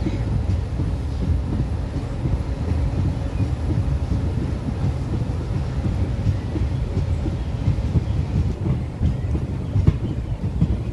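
Passenger train hauled by an ALCO WDG3A diesel locomotive pulling out of the station, rolling on the rails with a steady low rumble.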